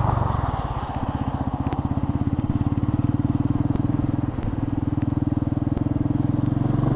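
Royal Enfield Meteor 350's single-cylinder engine running at low revs with a fast, even pulsing beat as the bike pulls away from a stop and rounds a turn.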